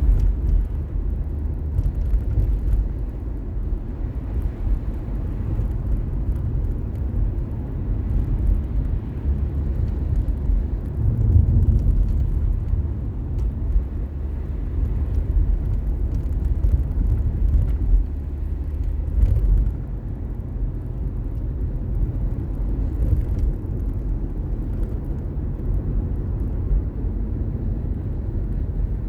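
Steady low rumble of a car on the move: engine and tyre noise heard from inside the car, swelling briefly a couple of times.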